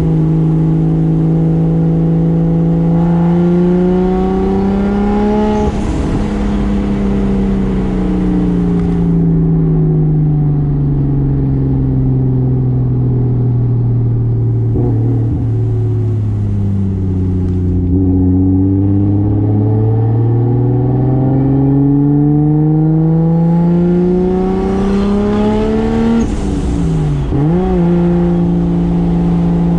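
Toyota 2JZ single-turbo straight-six running under way: the engine note climbs, falls slowly as the car eases off, climbs again with a hiss of intake and wind, dips sharply once near the end, then holds steady.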